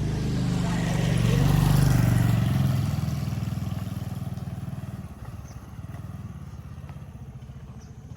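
A motor vehicle passing close by, its engine and road noise swelling to a peak about two seconds in and then fading away, leaving a low steady hum.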